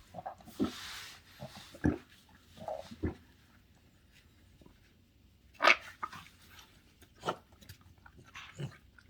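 A double doodle puppy making a string of short, separate noises a second or so apart, with the loudest, sharpest one a little past halfway.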